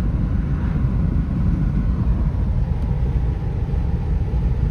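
A car driving along a road: steady low rumble of road and engine noise.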